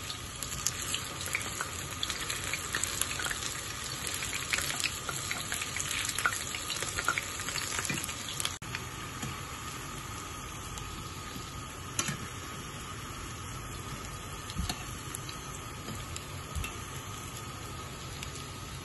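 Vegetable fritters shallow-frying in hot oil in a frying pan: a steady sizzle with dense crackling pops that thin out after about eight seconds. A single sharp click about twelve seconds in.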